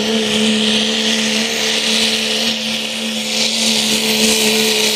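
Pickup truck's engine running at steady high revs under heavy load, pulling a weight sled, with a loud hissing rush over a steady drone.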